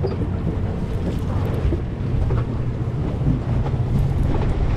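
Steady low drone of a sportfishing boat's engines running, with wind buffeting the microphone and sea noise over it.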